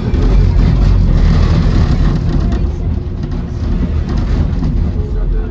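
Docklands Light Railway B92-stock train running at speed, heard inside the carriage: a steady low rumble of wheels on rails with a hiss of running noise, loudest over the first few seconds and then easing a little.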